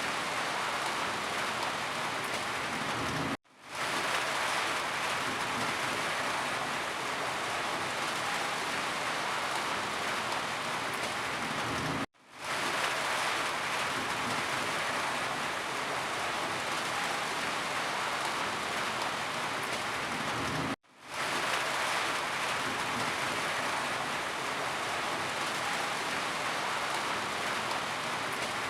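Steady rain, a dense even hiss with no separate drops standing out. It cuts out to silence for an instant three times, about every nine seconds, and fades back in each time, like a looped recording.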